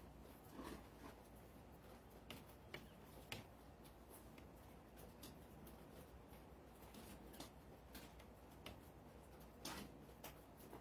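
Near silence with a low hum and scattered faint clicks and taps, about a dozen at irregular intervals.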